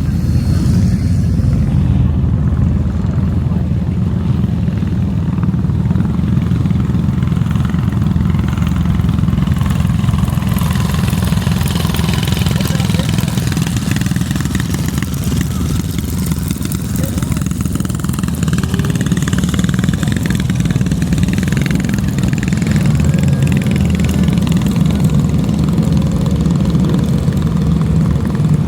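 Car engines running in a steady low rumble.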